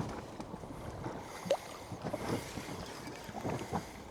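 Wind on the microphone and water moving around a small anchored boat, with a few light knocks.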